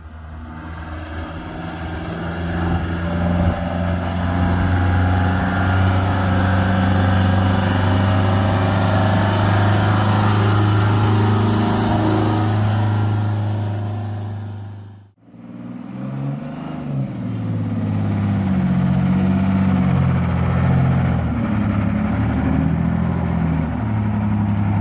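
Detroit Diesel truck engines running loud. The first builds up over a few seconds and holds a steady note; after a sudden cut about fifteen seconds in, another engine runs with its pitch rising and falling as it revs.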